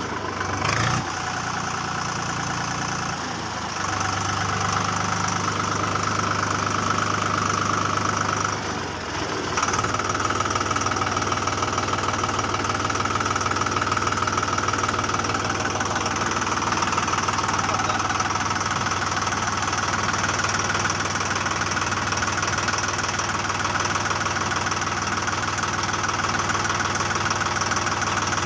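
Motor of a mini JCB model running steadily with an even drone, dipping briefly about nine seconds in.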